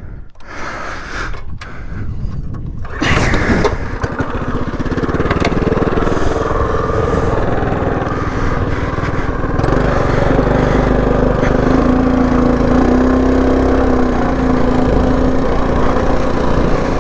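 Predator 224 single-cylinder engine on a mini bike, coming in loudly about three seconds in after a few knocks. It runs as the bike rides, its pitch shifting before holding steadier and higher from about ten seconds in.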